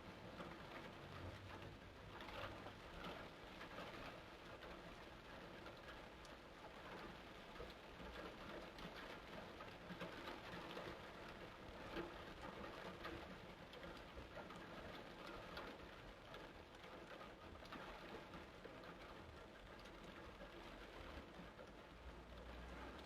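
Faint, steady rain falling, a continuous hiss of patter with many small drop ticks.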